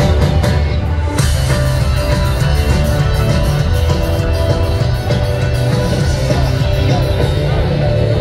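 Live rock band playing at full volume, with electric guitar, bass and drums, in the opening bars of a song.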